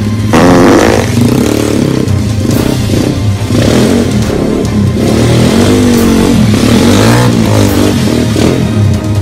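Motorcycle engine revving, rising and falling in pitch, over background music.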